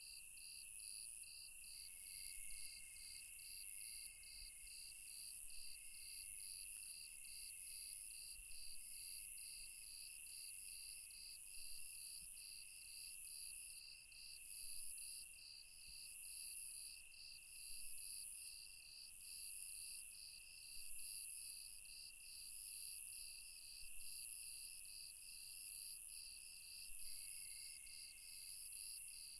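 Night chorus of crickets and other insects: one steady high trill, a layer of chirps pulsing about twice a second, and a higher, hissier pulse about once a second.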